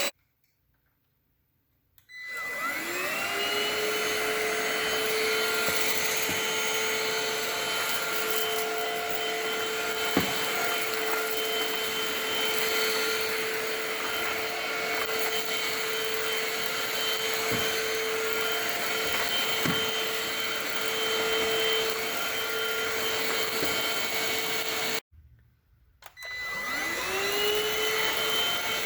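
INSE N-5 cordless stick vacuum motor on low speed, starting about two seconds in with a rising whine that settles into a steady high hum. It cuts out near the end and spins straight back up again, with a few faint clicks of debris along the way.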